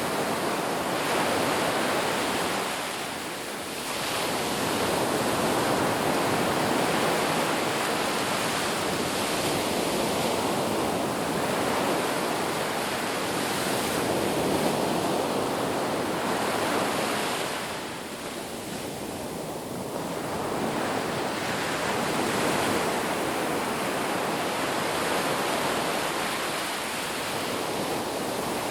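Ocean surf washing onto a beach, a continuous rush of breaking waves that swells and eases, with lulls about three seconds in and again around eighteen to twenty seconds.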